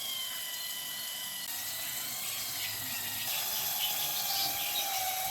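A small motor-driven machine running with a steady high whine over a bright hiss. The whine jumps to a different pitch twice, and is lower and louder over the last two seconds.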